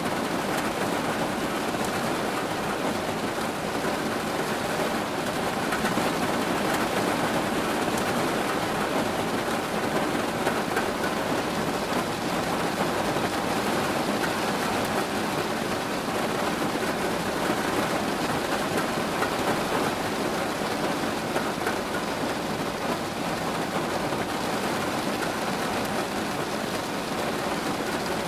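Steady rain falling on a surface, an even dense hiss with faint scattered drop ticks and no change in strength.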